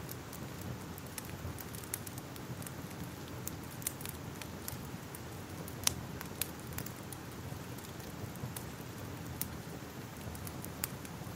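Fire crackling: a steady low rumble with irregular sharp pops and snaps, the loudest pop about six seconds in.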